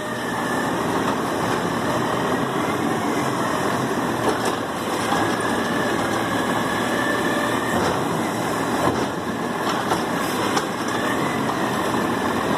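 Garbage truck engine running steadily, with a faint high whine that rises in and fades out a few times.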